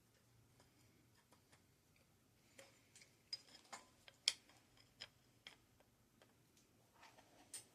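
Faint, irregular clicks and taps of hand tools and metal parts as a stuck brake lever is worked off a mountain bike handlebar, with a sharper click about four seconds in.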